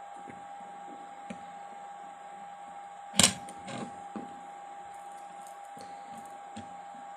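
Objects handled on a workbench: one loud clatter about three seconds in, followed by a few lighter clicks, over a steady faint high whine.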